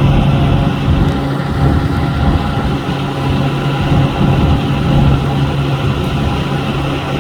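Boat engine running steadily, a constant low droning hum over rumbling noise.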